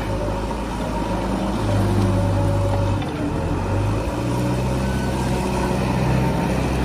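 Heavy diesel engine running steadily, its note shifting about three seconds in and again a second later.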